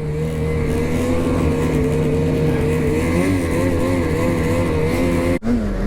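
Ski-Doo 850 two-stroke snowmobile engine running at a steady speed, its pitch wavering up and down from about three seconds in as the throttle is worked. The sound drops out sharply for an instant near the end.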